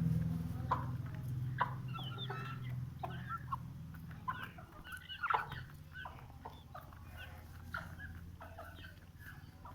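Aseel chickens clucking, with many short, scattered calls, over a steady low hum.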